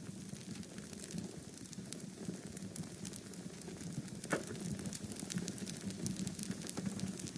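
Fireplace wood fire crackling steadily with irregular small snaps over a low rumble, and one sharper, louder pop a little past halfway.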